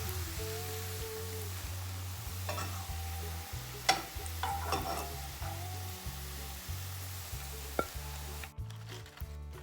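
Tempura-battered onion deep-frying in hot oil, sizzling steadily, with a few sharp clinks of a utensil against the pan. The sizzle cuts off suddenly near the end.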